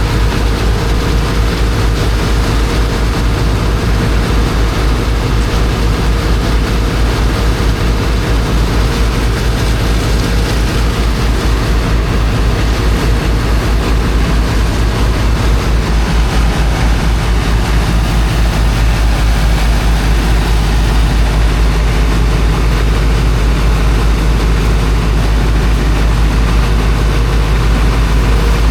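Heavy engine of a high-pressure water pump running steadily with a fast, even low throb, over a constant broad hiss.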